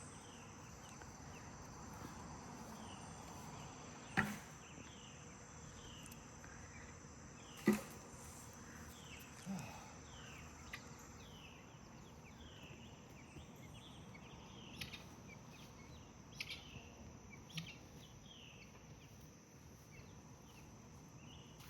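Insects droning with a steady high tone, with short falling chirps repeating about once a second and a few sharp knocks, the loudest about four and eight seconds in.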